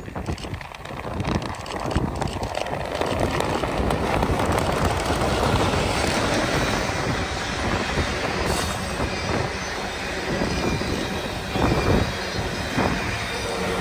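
A train rolling past, a steady rumble of wheels on rails that grows louder over the first two seconds, with a couple of louder knocks about two seconds before the end.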